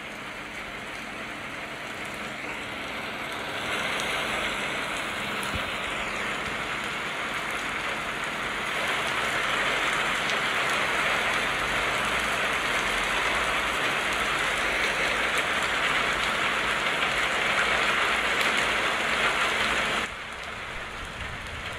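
Heavy rain falling steadily as a dense, even hiss. It grows louder about four seconds in and again around nine seconds, then drops abruptly near the end.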